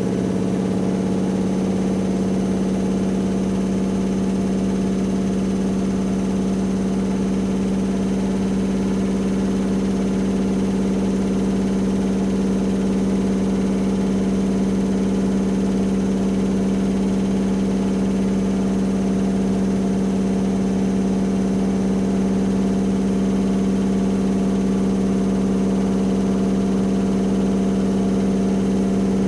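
AEG Lavamat L74810 washing machine spinning its drum at a steady high speed, the motor giving a constant hum.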